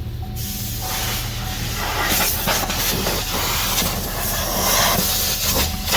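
Vacuum cleaner running with a steady motor hum. A loud hissing rush of air sets in about half a second in and grows stronger a couple of seconds later as dog hair is cleaned out of a car's interior.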